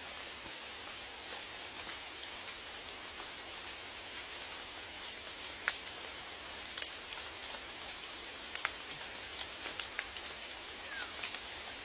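Steady rain falling, with scattered single drops striking close by as sharp ticks, the loudest about halfway through.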